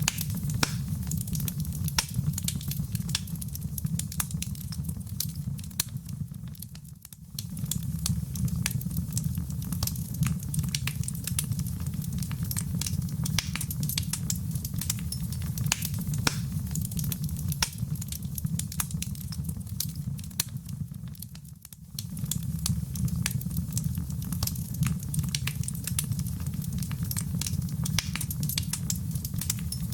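Fireplace fire burning, with a steady low rumble under dense, irregular crackles and pops. The sound dips briefly twice, about 7 and 21 seconds in.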